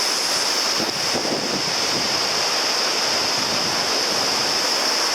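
Palisades Creek rushing steadily, an even hiss of fast-flowing water.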